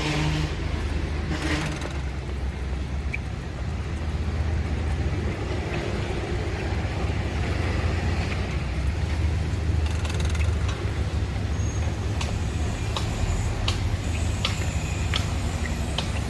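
Steady low rumble of road traffic, with a few sharp clicks in the last few seconds.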